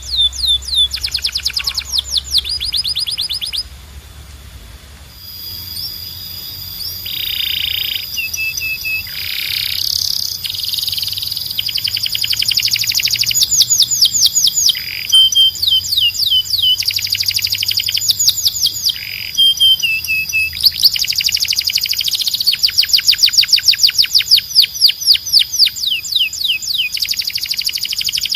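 Canary singing: long trills of fast repeated sweeping notes, mixed with held whistled tones, with a brief quieter lull about four seconds in.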